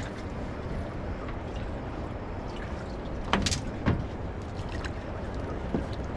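Steady background noise of a small boat on the water, with two sharp knocks a little over three seconds in and a fainter one near the end.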